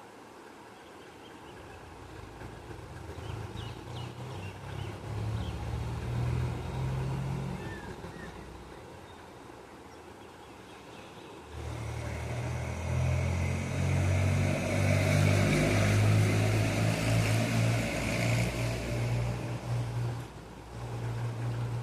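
Motor vehicles going by: a low engine hum swells and fades, then a second, louder one comes in about halfway through with more road noise and dies away near the end. A few faint bird chirps can be heard in the first few seconds.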